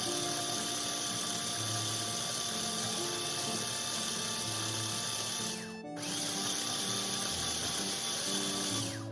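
A small electric motor running with a steady high whirr, switched off about six seconds in, winding down and straight back up, then cut off at the end. Background music with held, stepping notes plays throughout.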